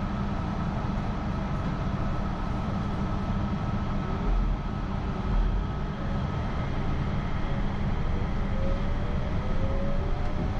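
Inside a car of a Yurikamome rubber-tyred automated guideway train: a steady running rumble, joined from a little past halfway by a whine that rises in pitch as the train picks up speed.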